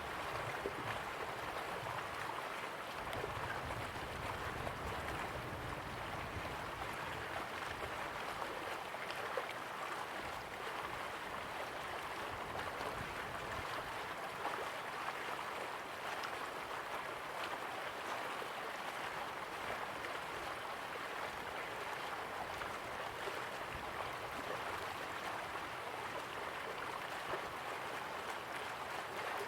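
River water flowing slowly, a steady even rush and babble.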